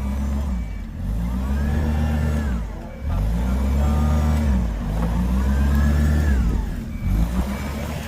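A vehicle's engine revving up and down about three times, its pitch climbing and falling with each push on the gas, as the driver tries to power through deep snow.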